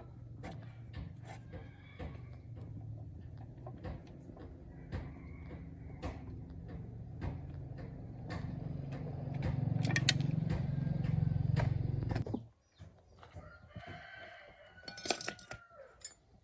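Chickens clucking, with short calls near the end. Underneath are scattered clicks and a low steady hum that swells and then cuts off suddenly about twelve seconds in.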